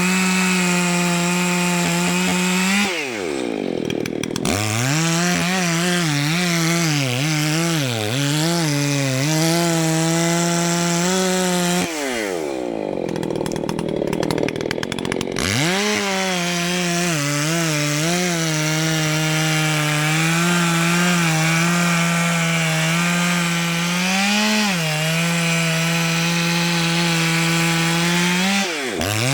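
Two-stroke chainsaw running at high revs and cutting through a large hardwood trunk, its pitch sagging and wavering as the chain loads up in the cut. Twice the revs fall away sharply and climb back, a few seconds in and again about halfway through, with a brief dip near the end.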